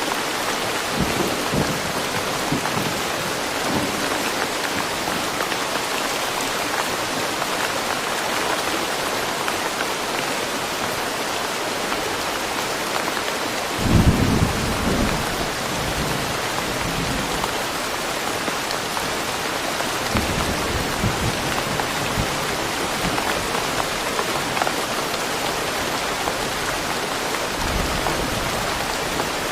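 Steady rain falling in woodland, an even hiss, with low rumbles of thunder rolling through: a louder one about halfway, and fainter ones later.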